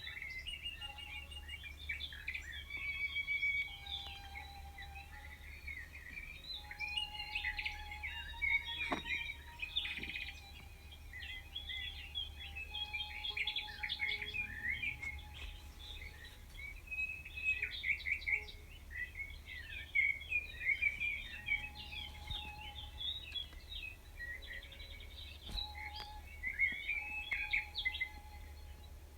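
Several birds singing and chirping at once: a dense, continuous chorus of short calls and trills, over a faint steady low hum.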